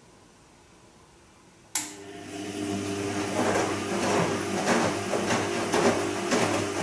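Bosch Serie 2 VarioPerfect washing machine starting its drum after a quiet pause: a sudden click under two seconds in, then a steady motor hum as the drum turns, with a swish of the wet load every half second or so.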